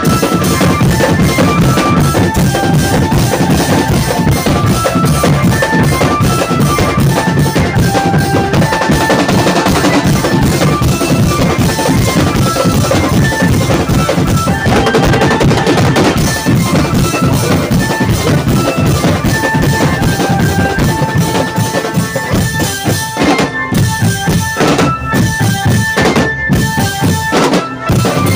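Drumband playing: rapid snare and bass drum strokes under a melody of short high notes, with several brief stops in the beat near the end.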